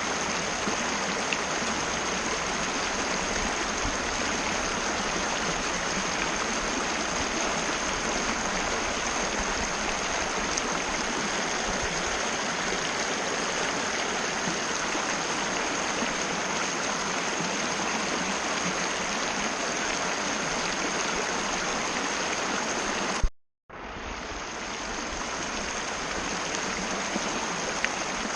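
Mountain river water rushing steadily over rocks, with a thin steady high tone above it. About 23 seconds in, a click is followed by a brief complete dropout, and the water sound then fades back in.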